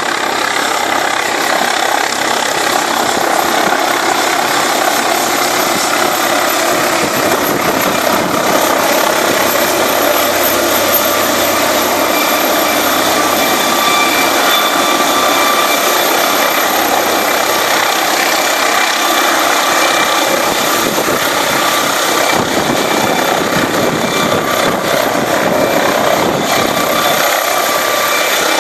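A helicopter's engine and rotors running, loud and steady, with a faint whine held through it.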